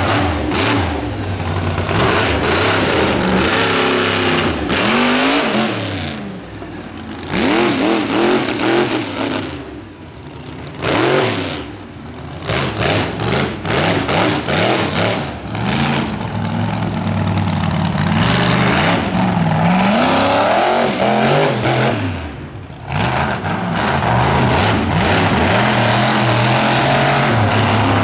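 Monster truck engine revving hard, its pitch climbing and falling again and again as the throttle is worked, with short lifts off the throttle about ten seconds in and again near the end.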